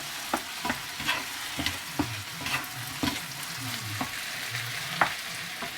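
Chicken frying in a pan with a steady sizzle while a utensil stirs it, knocking against the pan every half second or so, with a sharper knock about five seconds in.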